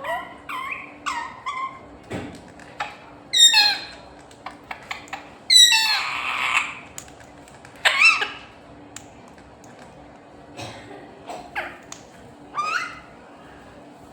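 Pet parrot giving a string of short, shrill calls and squawks, many sweeping quickly up or down in pitch, with brief pauses between them.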